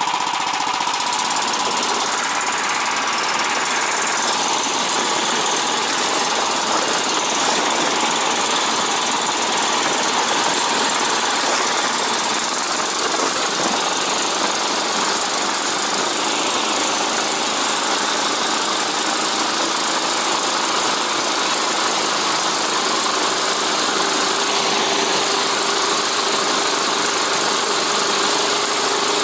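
Small single-cylinder engine of a motorised snow tug (motobuksirovshchik) running steadily under way.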